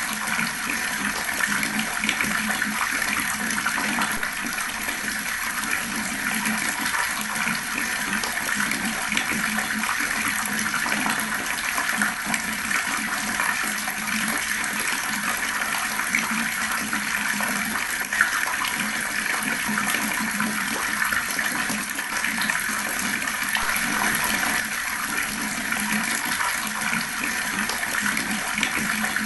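Fast-flowing water gushing in a steady, unbroken stream.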